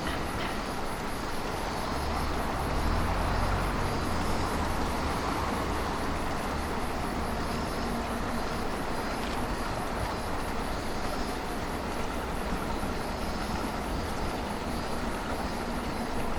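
Railway train at a station: a steady mechanical hum with a low rumble that swells about two to four seconds in, from the deadheaded Series 205 electric train set and its transfer consist.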